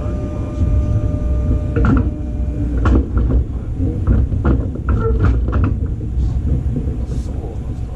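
Inside the car of a JR Osaka-Higashi Line electric local train: a steady low rumble with scattered knocks, clatters and creaks of the car body and running gear. A steady whine stops about two seconds in.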